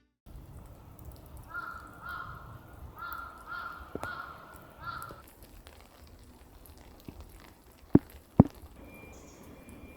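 A crow cawing, a run of about seven harsh calls in quick succession, then falling silent; near the end two sharp knocks about half a second apart are the loudest sounds.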